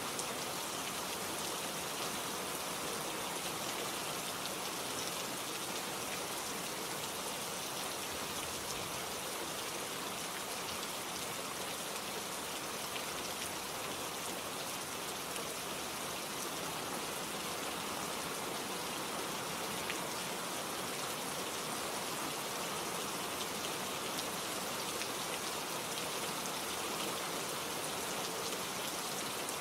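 Steady rain falling, with a constant hiss of rainfall and many small drop patters on surfaces.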